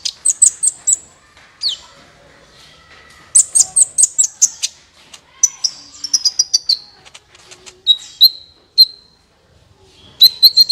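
Sunbird (the bird Indonesian keepers call kolibri) singing: phrases of high, rapid chirps and short trills with brief pauses between them, including a falling run of notes partway through.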